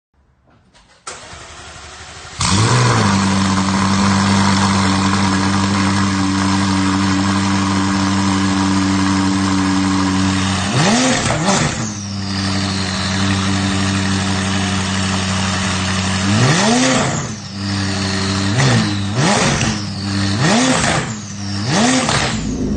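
McLaren 570S twin-turbo V8 through a Ryft aftermarket exhaust starting up: a click about a second in, the engine catching a second later and settling into a steady idle. It is revved once about halfway, then blipped four times in quick succession near the end.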